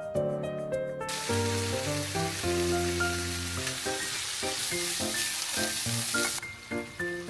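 Food sizzling in a frying pan over background music, starting about a second in and cutting off suddenly about a second before the end.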